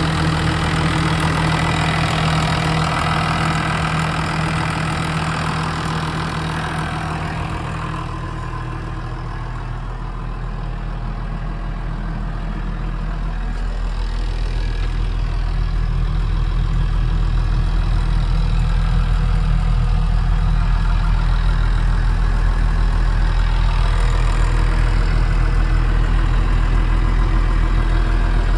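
Massey Ferguson 7485 Dyna-VT's six-cylinder turbo-intercooled Sisu diesel running. For the first few seconds it sits at raised revs, then about eight seconds in it drops to a deeper, steady low idle.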